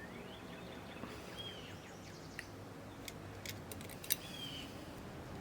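Faint bird chirps: a short arching call repeated about every three seconds over a low steady hum. A few small sharp clicks come in the middle, from a hook and parts being handled on the cassette deck mechanism while a drive belt is stretched onto the motor pulley.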